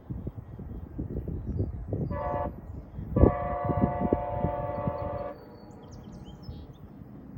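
Siemens Charger locomotive horn on a VIA Rail passenger train: a short blast about two seconds in, then a longer blast of about two seconds, part of a horn show. Under it the wheels of the passing train knock steadily over the rail joints, fading after the long blast.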